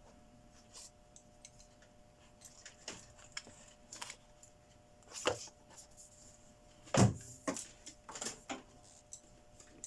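Tools and parts being handled on a workbench: scattered clicks and light knocks, the loudest about seven seconds in, over a faint steady hum.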